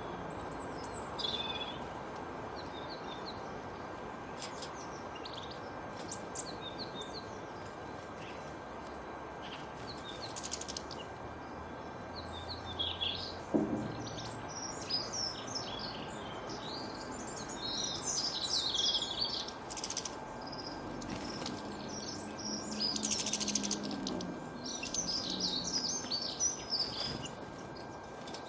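Many small birds chirping and twittering over a steady background hiss. The chirping grows busier in the second half.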